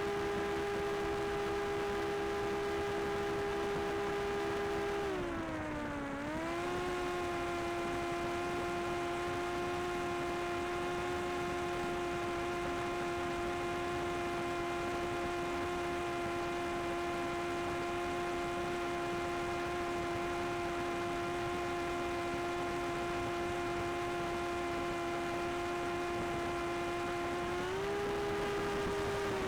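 Small quadcopter drone's propellers whining steadily in flight. The pitch dips and settles slightly lower about five seconds in, and rises again near the end as the motors change speed.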